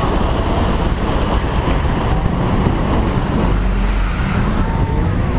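Holden VY Commodore ute's engine revving while drifting on a wet skid pan, heard from a roof-mounted camera with a heavy rumble of wind on the microphone. The engine note climbs in pitch during the second half.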